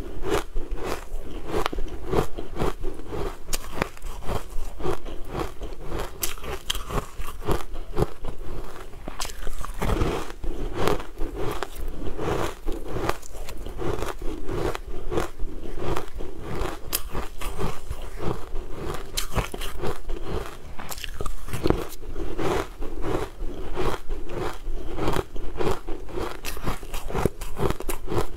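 Close-miked eating of crunchy food: a continuous run of crisp bites and crackling crunches as it is chewed, with no let-up.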